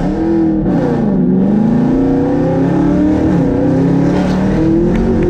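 Supercharged 6.2-litre V8 of a 2018 Chevrolet Camaro ZL1 accelerating, heard from inside the cabin: the revs climb, drop at a gear change about a second in and again after about three seconds, then climb again. The exhaust is in its quiet mode.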